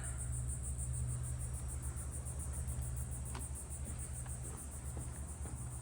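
Crickets chirring in a steady, rapidly pulsing high trill, with a steady low rumble beneath.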